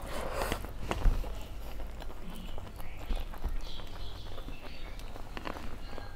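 Close-miked mouth sounds of eating rice and dal with fried pakodas by hand: wet chewing, lip smacks and soft clicks, with one sharper click about a second in.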